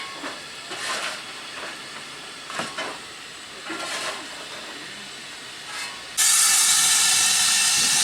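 Steam locomotive letting off steam: soft, short hisses, then about six seconds in a sudden loud, steady blast of steam that cuts off sharply about two seconds later.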